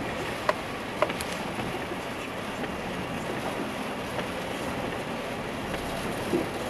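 Vehicle driving through deep floodwater: a steady rush of water and road noise, with two short clicks about half a second and a second in.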